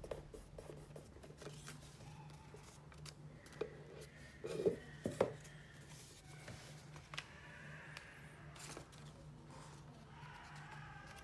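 Paper being handled and folded: faint rustles, scrapes and light taps, with a few louder crinkles around four to five seconds in, over a low steady hum.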